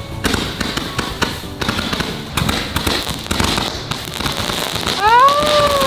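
Large consumer firework cake firing its shots in a dense, irregular run of crackling pops and bangs. About five seconds in, a pitched tone rises and then falls.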